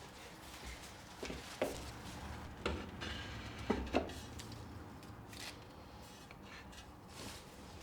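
Light knocks and clatter of household objects being handled and set down: about five sharp taps between one and four seconds in, over a quiet room background.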